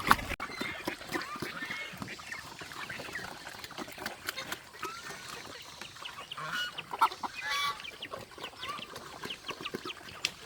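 Farm poultry calling: many short squawks, honks and clucks overlapping, scattered through the whole stretch.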